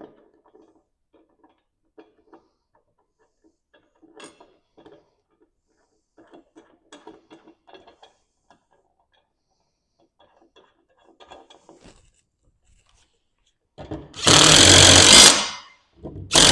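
Two bursts of a power tool running bolts in near the end, each about a second and a half long. Before them, faint clicks and rattles of tools and hardware being handled.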